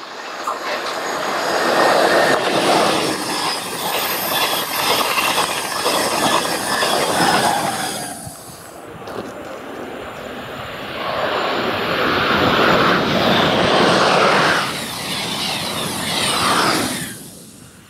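TGV high-speed trains passing at speed, a loud rushing of wheels on rail and air. It builds, holds for several seconds and breaks off about eight seconds in, then a second TGV rushes past and fades near the end.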